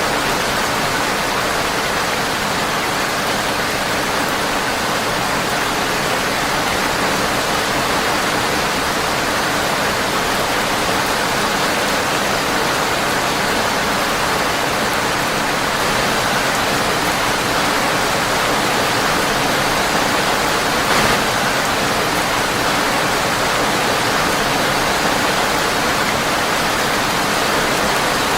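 Steady, dense hiss of rain falling on a windowpane, with one brief louder tick about three-quarters of the way through.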